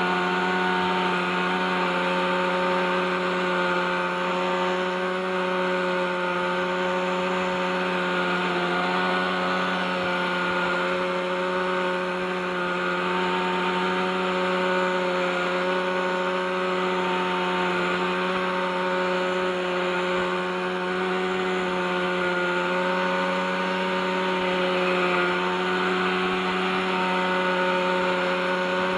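OS 61SF two-stroke glow engine of a radio-controlled helicopter running steadily at hover, its pitch drifting slightly up and down with the throttle. The engine was revived after more than thirty years without maintenance and still has rusty bearings.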